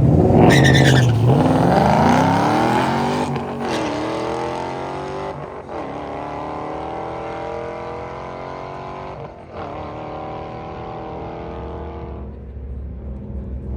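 A car's engine at full throttle accelerating down a drag strip, its revs climbing and dropping back at three gear shifts, about three, five and a half, and nine and a half seconds in. It is loudest at the launch and fades as the car pulls away.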